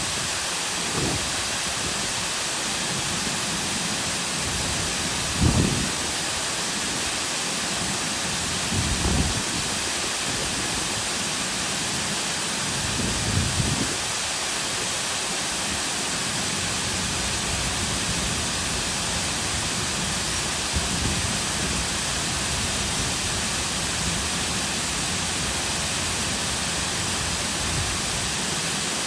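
Artificial lakeside waterfall: a steady rush of water falling into the lake. A few short, low swells rise out of the rush now and then, the strongest about five seconds in.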